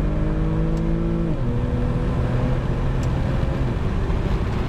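Infiniti G37's V6 through a custom cat-back exhaust, pulling hard with the windows down: the engine note climbs, drops abruptly a little over a second in, then carries on steadily and fades into road and wind noise.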